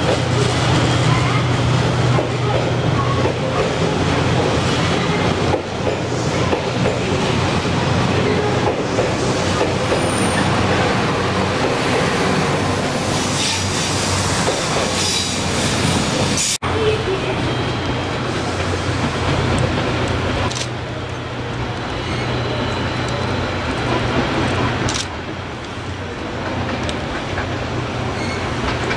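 Train running on the rails: a steady rumble with a low hum and some clatter of the wheels. There is a sudden break about 17 seconds in, and the sound drops a little in the last few seconds.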